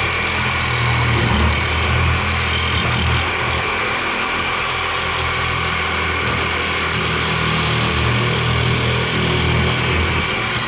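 A power tool's motor running steadily with a high whine, its load swelling and easing now and then, then dying away right at the end.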